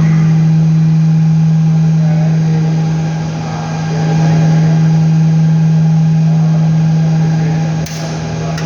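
A machine's loud, steady hum of constant pitch, with two sharp clicks near the end.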